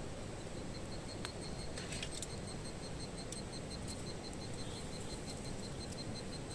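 An insect chirping, a high note repeated steadily about five times a second over a steady background hiss, with a few faint clicks about one and two seconds in.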